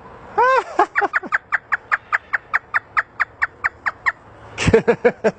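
African grey parrot imitating hysterical laughter: a rapid run of short, rising-and-falling 'ha' notes, about six a second for some three seconds, with a few louder calls near the end.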